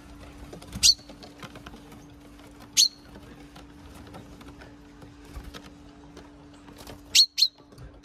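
Sharp call notes of small songbirds feeding close by: four short, steeply falling calls, once about a second in, again near three seconds, and a quick pair near the end.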